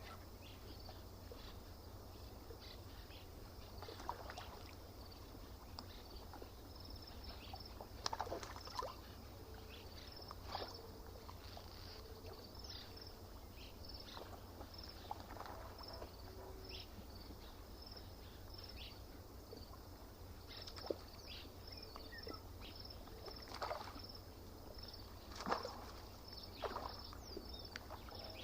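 Lakeside ambience: small splashes and lapping of water at irregular moments, over a steady low rumble, with a high chirp repeating evenly about two or three times a second throughout.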